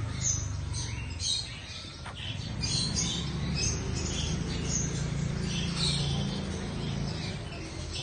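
Bird chirping: many short, high-pitched squeaky chirps scattered throughout, over a low steady hum.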